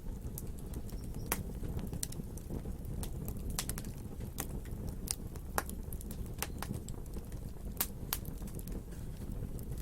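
Wood fire burning with irregular sharp crackles and pops over a low, steady rumble.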